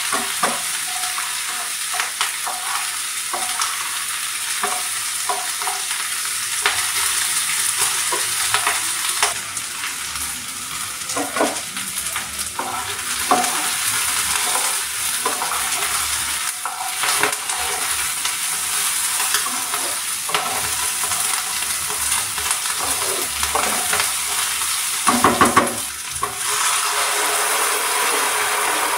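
Onion and green bell pepper sizzling in oil in a nonstick pan, stirred with a spatula that scrapes and knocks against the pan many times. Near the end a sauce goes in with a brief louder burst, and the pan turns to a wetter bubbling sizzle.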